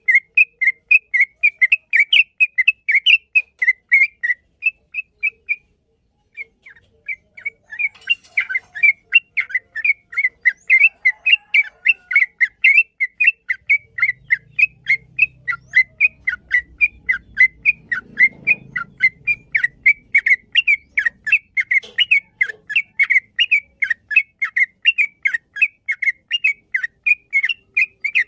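Yellow-vented bulbul (trucukan) singing a long, fast run of short, sharp, whistled notes, about four a second, with a brief break about six seconds in.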